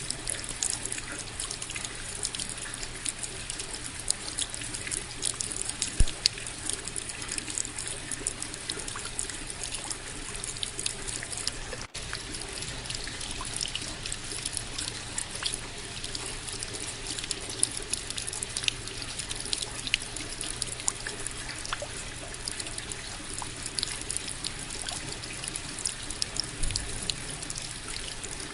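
Steady rain, many separate drops ticking close by over a running trickle of water. One louder drop about six seconds in and a momentary break about twelve seconds in.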